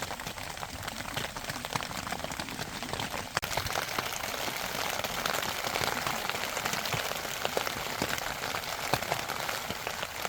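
Rain falling steadily, a patter of many separate drops hitting close by.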